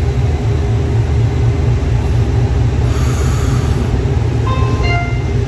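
Steady low rumble of a moving passenger train heard from inside the car, with a brief hiss about three seconds in. Near the end, a short electronic chime of a few tones at different pitches sounds, the on-board signal ahead of the next-stop announcement.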